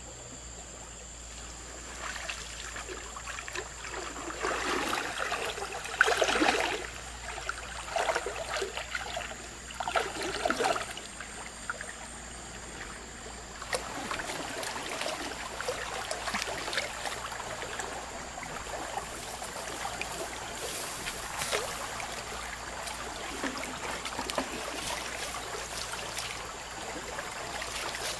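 River water splashing and trickling. A few louder splashing surges come in the first half, then it settles into a steady run of water with small drips and ticks.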